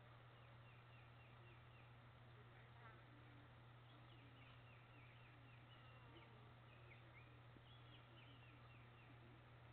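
Near silence: a steady low hum, with faint bird chirps and short trills coming and going.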